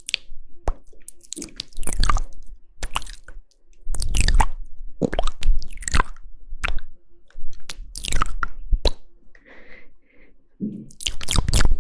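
ASMR mouth sounds close to the microphone: wet clicks, smacks and squishes in irregular clusters with short quiet gaps between.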